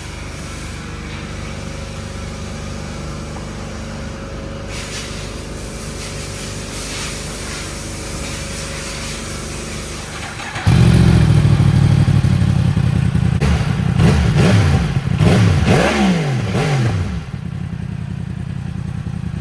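2024 Yamaha R1M's crossplane inline-four engine running through an aftermarket end can with the stock catalytic converter still fitted. It idles steadily, gets much louder about ten seconds in, is revved several times with the pitch rising and falling, then settles back to a steady idle.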